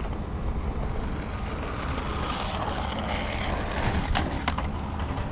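A vehicle passing by: its noise swells and fades over a couple of seconds over a steady low rumble, with a few sharp clicks near the end.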